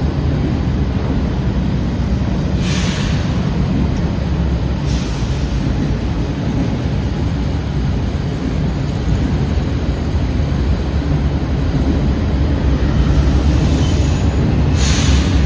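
Freight train passing close by: a loud, steady low rumble of the train rolling on the rails, with short hissing bursts about three seconds in, about five seconds in and again near the end.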